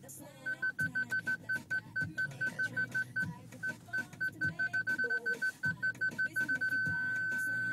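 Rapid electronic beeps at one high pitch, unevenly spaced like Morse code, that run together into one continuous steady tone near the end, over faint background music.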